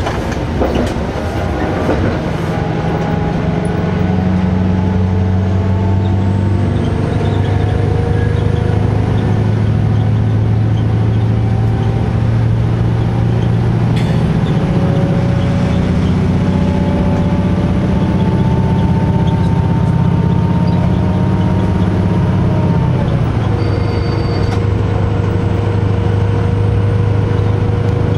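Diesel railcar under way, its engine running with a steady drone and a faint high whine, a few wheel clicks over rail joints at the start. About 23 seconds in, the engine note drops as the power is eased off.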